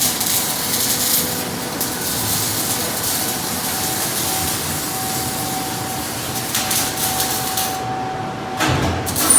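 Steady hiss and machine noise of a factory welding shop, with a faint steady hum-like tone and a few brief clicks. The hiss drops away for a moment near the end.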